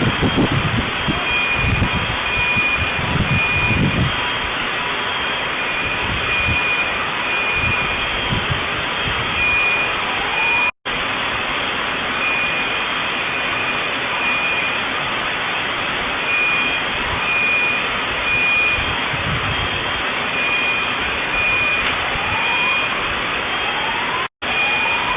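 An electronic alarm beeping on and off in short high pitched tones over a steady loud rushing noise, with a few short rising tones near the middle and the end. Low thumps sound in the first few seconds.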